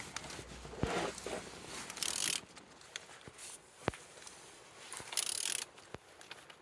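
Scattered metallic clicks and short scrapes of a wrench turning the crankshaft of a used Renault M9R 2.0 dCi diesel engine over by hand, a check that the engine turns freely.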